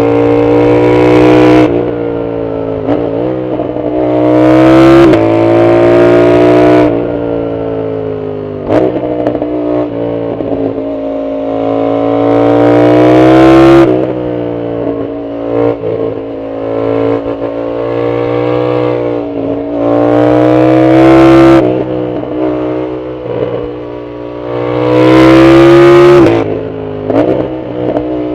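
Yamaha MT-07's 689 cc CP2 parallel-twin engine through a loud full aftermarket exhaust, accelerating hard several times under load. Each time the pitch climbs steadily to a loud peak and then drops as the throttle is closed or a gear is changed.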